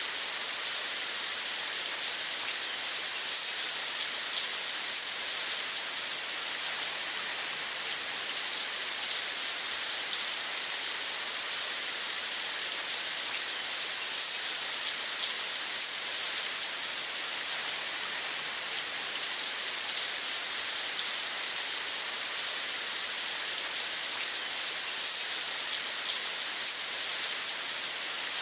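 Steady rain falling, a continuous even hiss of many fine drops that never changes in level.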